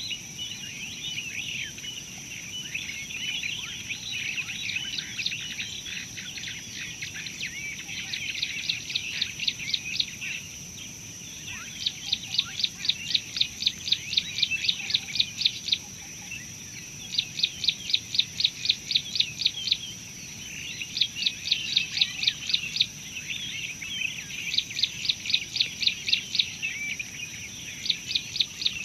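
Wild birds calling: a jumble of short chirps at first, then one bird repeating fast trains of sharp notes, about six a second, each train lasting a few seconds with short pauses between. A steady high-pitched tone runs underneath.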